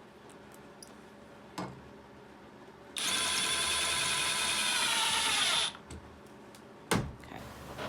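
Power drill running for about three seconds, its motor pitch dipping slightly under load before it stops, as when driving a screw into hinge hardware on a wooden door frame. A couple of short clicks come before and after.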